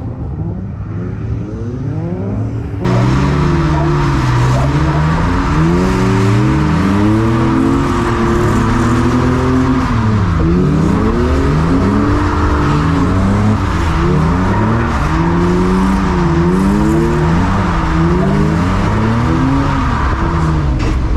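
Several drift cars running in tandem, their engines revving up and down with overlapping rising and falling notes, over tyre noise on a wet track. The sound gets suddenly louder about three seconds in.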